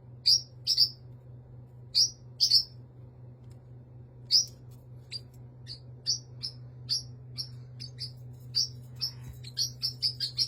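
A bird chirping: short high chirps, in pairs at first, then coming faster and closer together toward the end.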